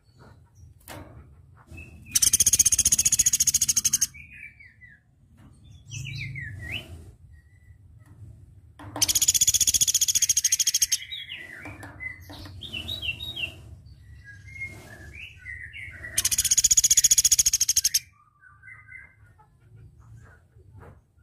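Velvet-fronted nuthatch (platuk beras) singing: three loud, very rapid trills of about two seconds each, roughly seven seconds apart, with softer short chirps in between.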